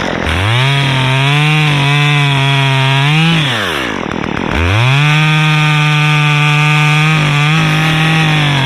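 Top-handle two-stroke chainsaw revving to full throttle and cutting into the pine trunk, dropping back to idle after about three seconds, then revving up again for a longer cut with a brief dip in pitch near the end.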